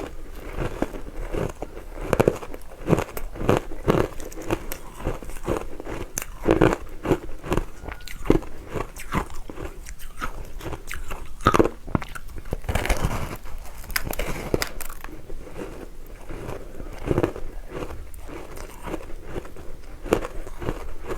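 Close-miked biting and chewing of ice dusted with matcha powder: a dense, irregular run of crunches, some louder bites standing out.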